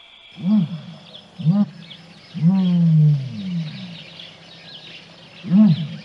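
A bird giving four short, deep calls that rise and fall in pitch, the third longer and sliding downward, with faint high chirping of other birds behind.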